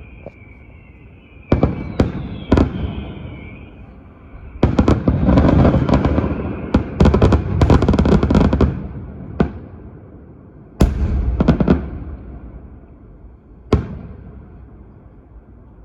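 Fireworks going off: a whistle, then separate sharp bangs, a dense stretch of rapid crackling bangs in the middle, and a few more bangs after it.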